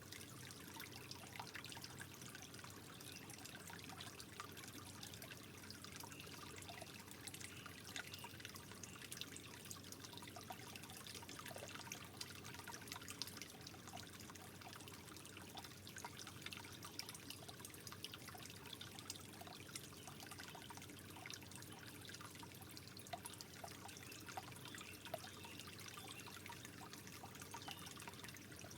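Soft, steady trickle of water with many small drips and plinks running through it.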